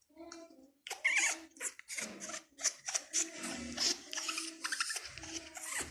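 Pet parrot making a quick run of short rasping, chattering sounds mixed with brief squeaky notes.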